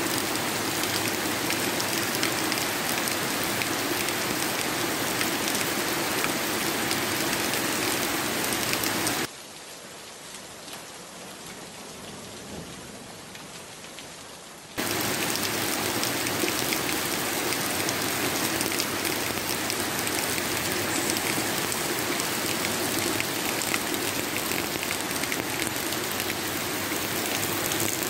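Heavy rain falling steadily as a dense patter of drops. About nine seconds in it drops abruptly to a quieter, duller rain for about five seconds, then jumps back just as abruptly.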